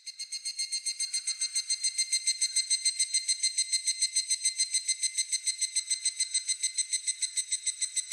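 A cicada calling in a fast, even pulse of about seven beats a second with a high, ringing tone, building up over the first second and then holding steady.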